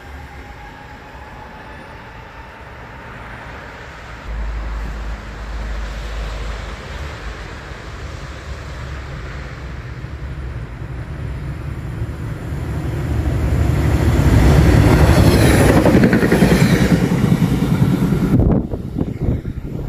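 Electric regional train on the line, its running and rail noise building steadily to its loudest in the last few seconds, then cut off sharply near the end.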